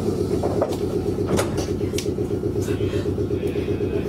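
Meitetsu 6800-series electric commuter train running between stations, heard from inside the front car: a steady, rhythmic rumble of motors and wheels on the rails, with a few sharp clicks about a second apart.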